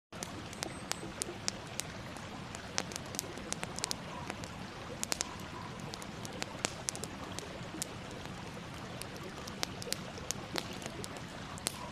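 Campfire crackling: frequent irregular sharp pops and snaps over a steady hiss.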